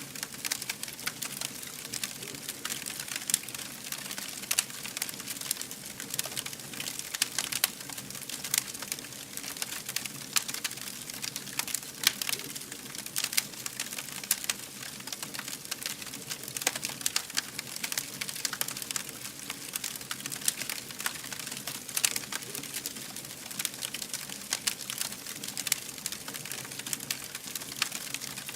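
Wood fire burning, with a steady hiss and dense, irregular crackles and sharp pops throughout.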